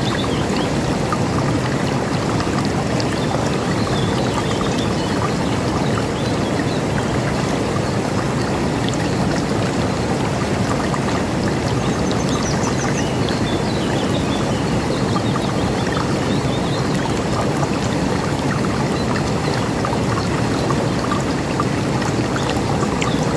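River water rushing steadily, a continuous dense flow, with a few faint bird chirps above it.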